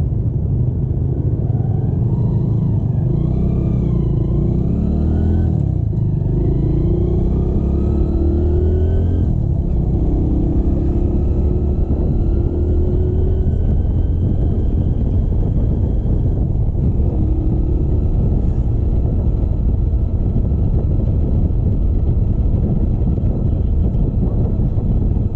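Motorcycle engine pulling up through the gears while riding: its pitch rises and drops back several times in the first half, then climbs slowly and steadily. Heavy wind rumble on the microphone runs underneath.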